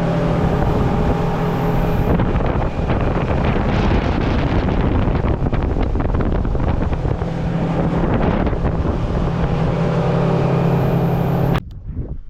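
Boat under way at speed: its engine runs steadily under heavy wind noise on the microphone and rushing water. The sound cuts off suddenly near the end.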